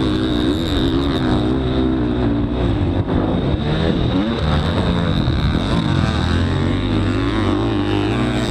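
Motocross dirt bike engine running hard, its revs rising and falling over and over as the rider works the throttle and gears.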